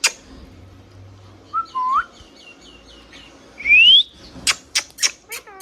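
Pet ringneck parrot whistling: a short rising whistle, a quick run of little chirps, then a loud rising whistle about four seconds in. A few sharp clicks follow, and a falling chirp comes near the end.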